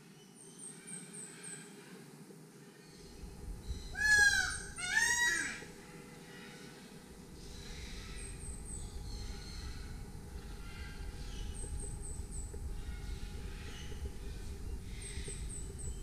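Birds calling: two loud, harsh calls about a second apart, each a quick run of wavering notes. Between them and around them, a thin high chirp repeats in short runs of four or five, every few seconds.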